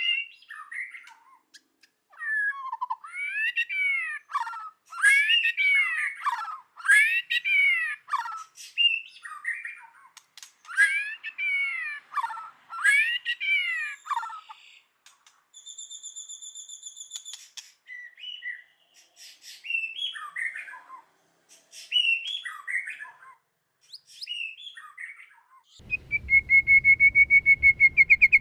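White-rumped shama singing a varied run of loud, clear whistled phrases, each note rising and falling in pitch, with short pauses and a held high note partway through. Near the end it changes to a fast, even trill.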